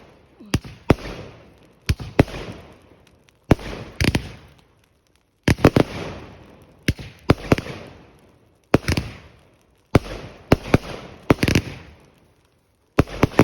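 Fireworks going off: sharp bangs, often two or three in quick succession, about one burst a second, each followed by a crackle that fades over about a second. A short lull comes before a last burst near the end.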